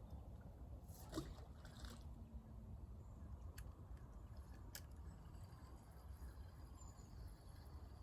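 Faint lakeside ambience: a steady low rumble, with a short sound about a second in, two sharp clicks near the middle, and a faint high bird chirp near the end.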